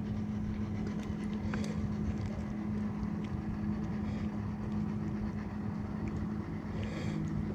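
A steady, low motor hum with a few faint scattered clicks.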